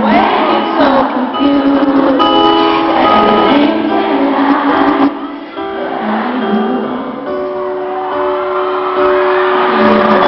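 Live concert audio of a slow pop ballad's opening: sustained piano chords ring through a large hall, with voices from the audience rising over them. The recording is band-limited and slightly distorted.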